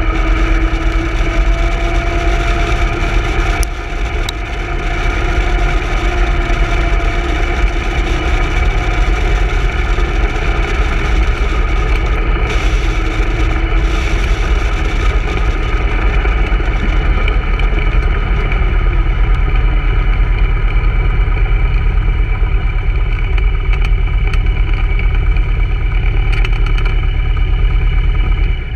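Open-cockpit vintage racing car's engine running at steady, moderate revs, heard on board with heavy wind rumble on the microphone. The level drops sharply right at the end as the engine stops.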